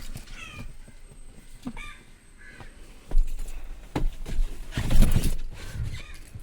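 Short harsh bird calls, several times, behind the scene. Loud thumps and rustling about three seconds in and again around five seconds in.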